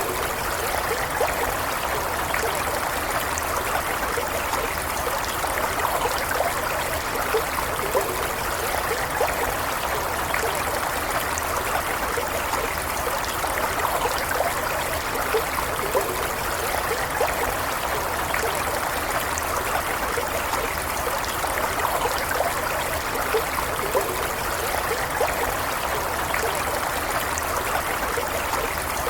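Small stream flowing steadily, with light bubbling and trickling over a continuous rush of water.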